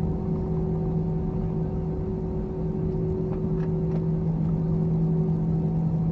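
Steady cabin noise of an Airbus A321 after landing: a constant hum of the jets at low power, with a steady low tone and a fainter higher tone that fades about four seconds in.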